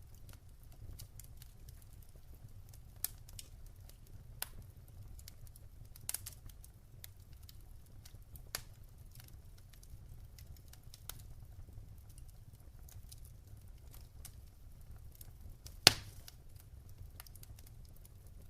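Wood fire crackling in a fireplace: irregular sharp pops and snaps over a steady low rumble, with one much louder pop near the end.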